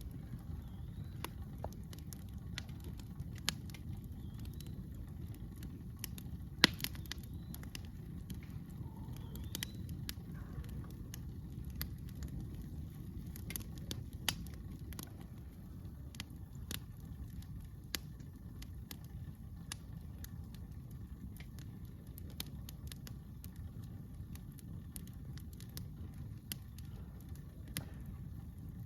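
Campfire crackling, with irregular sharp pops scattered throughout and one much louder pop about a quarter of the way in, over a steady low rumble.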